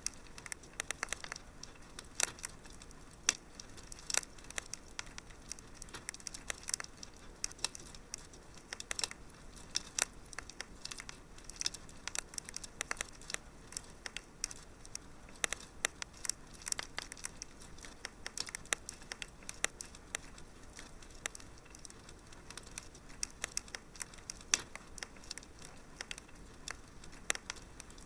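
Wood fire in a fireplace crackling: a steady faint hiss with frequent sharp, irregular pops and snaps.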